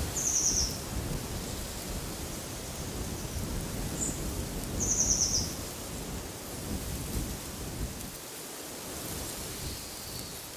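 Wind rumbling low and gusting, swelling twice. Above it a small bird gives a short, high trill twice, about five seconds apart, with a brief chirp between and a faint call near the end.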